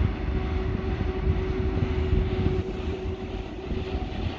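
A train running past, a steady low rumble with a constant hum over it.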